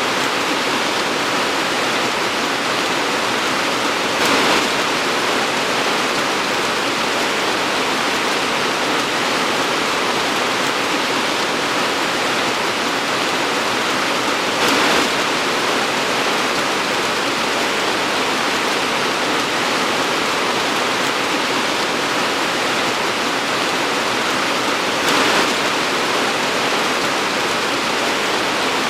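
Torrential tropical rain pouring steadily, a dense even hiss. It swells briefly louder three times, about ten seconds apart.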